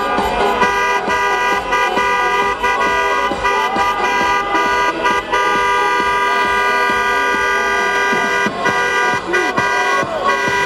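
Several horns blaring together in one long, steady, unbroken sound.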